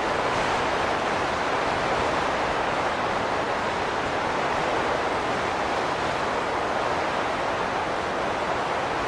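Wind blowing in a steady, even rush, with no gusts or whistling tones.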